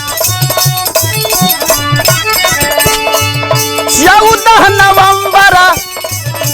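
Bhojpuri birha folk music: sustained keyboard tones over a steady hand-drum beat, with a voice singing a long, drawn-out phrase from about four seconds in.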